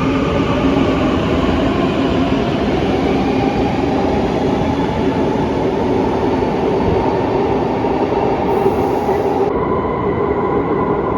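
Metro train running: a steady rumble of wheels on rail with the whine of the electric traction motors, the whine rising slowly in pitch through most of the stretch.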